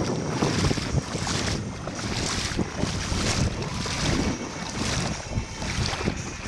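Wind buffeting the microphone and water washing around a small boat, in uneven swells about once a second.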